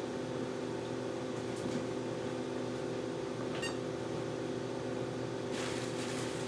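A steady machine hum with several fixed low tones, like a fan or heater running. About halfway through there is one small light tick with a brief high ring, and near the end a second of rustling.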